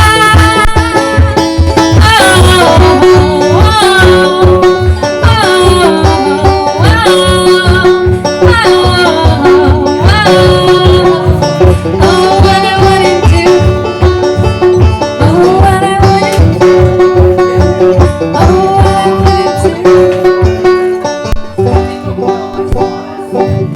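Live acoustic duo playing an upbeat country tune, with banjo picking over a steady quick beat.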